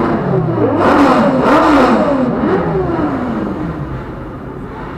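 Vehicle engine revving up and down, its pitch rising and falling several times, easing off after about three seconds.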